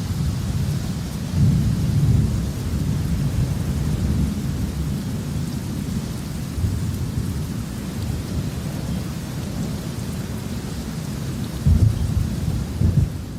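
Thunderstorm: thunder rumbling low and continuously, swelling louder about a second and a half in and again near the end, over steady falling rain.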